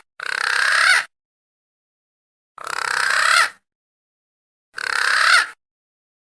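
Lure call for punai daun green pigeons, played three times: breathy, hissy whistled calls of just under a second each that rise in pitch, with dead silence between them.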